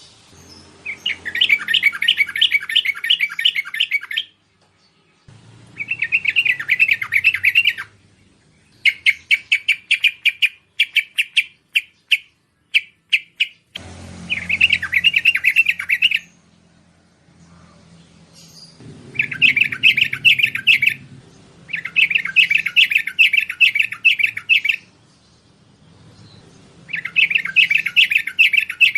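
Bulbul (merbah) song used as a lure call: repeated bursts of rapid bubbling chatter, each two to three seconds long, with short pauses between. In the middle comes a run of separate short notes.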